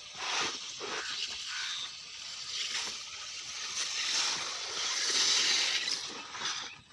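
Irrigation water rushing and splashing in a steady stream, swelling louder about five seconds in.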